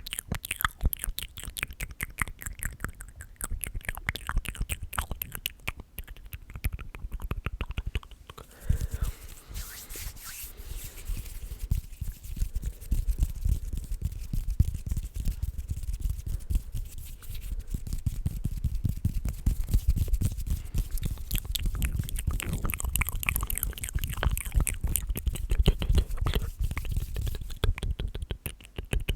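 Close-miked ASMR mouth and hand sounds: rapid wet clicks and crackles for the first several seconds, then a dense rustling, crackling texture with a strong low rumble.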